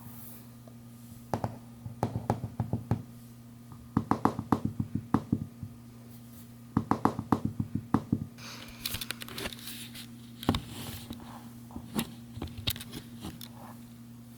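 Rapid knocking in bursts of about seven or eight knocks a second, three main bursts, then scattered single knocks with some rustling, over a steady low hum.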